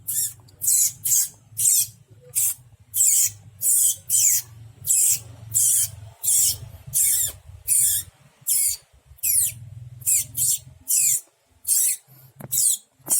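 A person imitating an animal with the mouth: a long run of short, high, hissy squeaks, about twenty of them in quick uneven succession.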